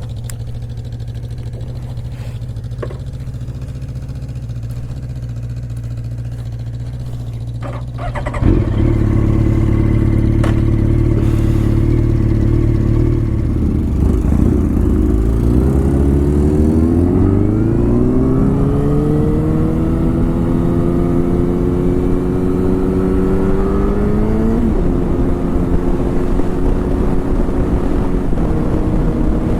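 Car engine heard from inside the vehicle: a steady low hum, then a sudden rise in loudness about eight seconds in as it pulls away. The engine's pitch climbs steadily as it accelerates and drops abruptly near the end at a gear change.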